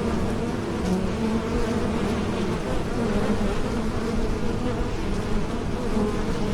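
Bees buzzing in flight: a steady, continuous hum whose pitch wavers slightly.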